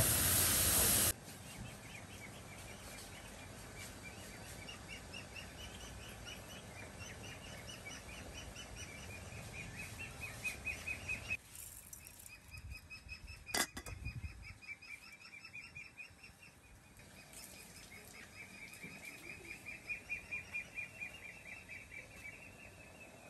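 A bird calling outdoors in repeated runs of rapid, high chirps, each run lasting several seconds. A loud steady hiss fills the first second and cuts off, and a single sharp knock comes about halfway through.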